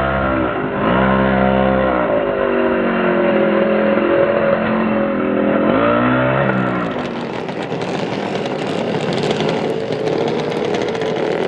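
Small nitro engine of a Hobao Hyper ST RC truggy running and revving up and down, its pitch rising and falling. About six and a half seconds in it turns rougher and noisier, with small clicks. The owner says the engine was running lean from a fuel pressure problem.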